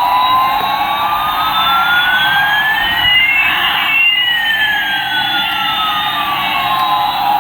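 Electronic siren-like sweep: two tones glide in opposite directions, one rising and one falling, crossing about halfway through, over a steady buzzing hiss.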